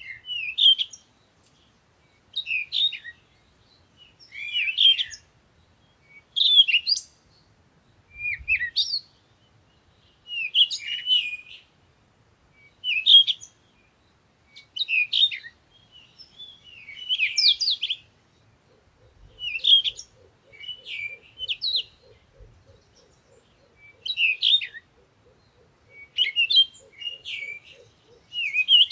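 A songbird singing short, quick phrases, one about every two seconds, with pauses between. From about two-thirds of the way in, a faint, low, rapid pulsing of about five beats a second runs beneath the song.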